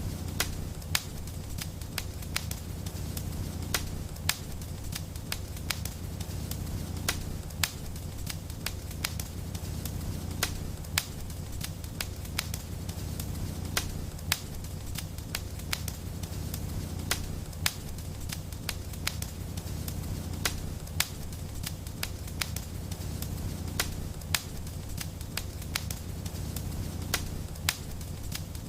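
Fireplace fire crackling, with frequent irregular sharp snaps over a steady low rumble.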